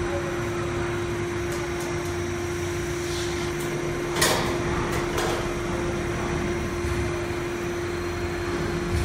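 HVAC duct production line machinery running steadily, a constant hum with a steady tone, and a short hiss about four seconds in followed by a fainter one a second later.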